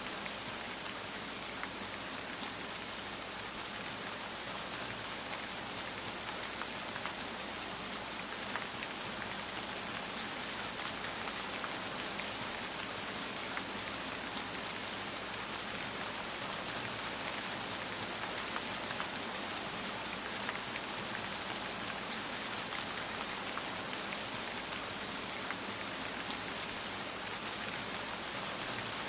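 Steady rain falling, a dense even hiss of drops with many small patters of individual drops striking a surface.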